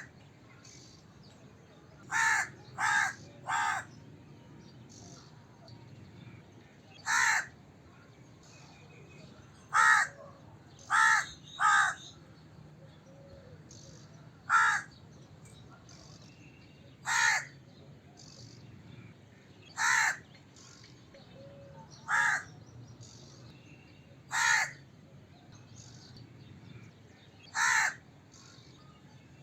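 A crow cawing: short, harsh caws repeated every few seconds, some in quick runs of three and others alone.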